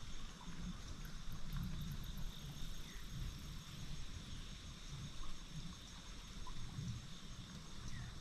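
Faint outdoor ambience: insects calling in steady high tones over a low, uneven rumble.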